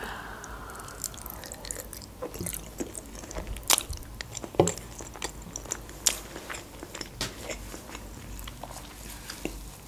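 A person biting and chewing a mouthful of food, with scattered sharp clicks.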